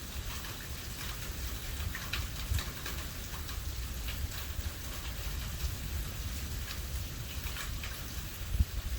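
Heavy rain during a thunderstorm, with many sharp drop ticks striking a surface over a steady low rumble.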